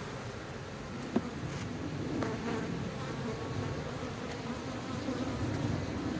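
A colony of honeybees buzzing steadily around an opened hive. There is one sharp click about a second in.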